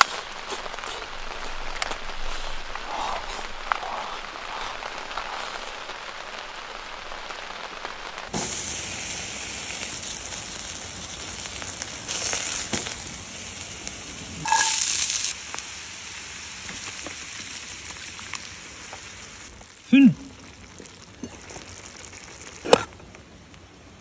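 Steady rain pattering on a tent canopy overhead, with close, wet chewing and several sharp clicks; the background changes abruptly about eight seconds in.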